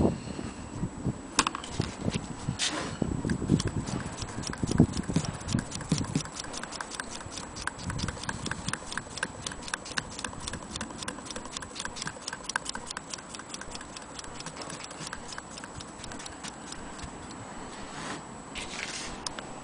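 Antique Willcox & Gibbs sewing machine being run by hand, its mechanism giving a rapid, even ticking of several clicks a second, with a few separate knocks near the start and the end.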